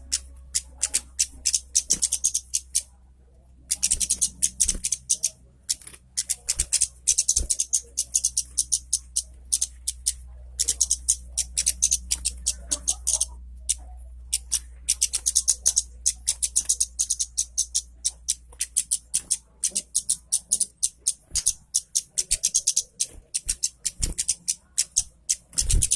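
Red-headed kemade songbird singing vigorously: rapid runs of sharp, high-pitched chips and trills in long bursts broken by short pauses, over a steady low hum.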